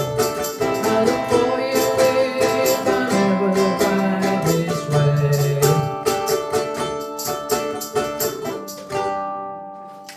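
A group of ukuleles strumming the closing chords of a folk song, with a last chord about nine seconds in that rings out and fades away.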